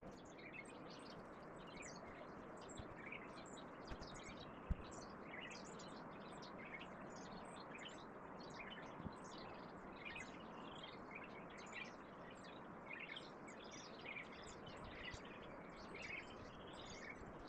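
Faint birdsong: many short chirps and calls from several small birds over a steady low hiss, with a single soft tap about four and a half seconds in.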